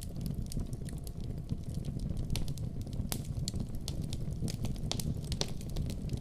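Wood fire burning in a fireplace: a steady low rumble of flame with irregular sharp crackles and pops from the logs, several a second, a few louder pops scattered through.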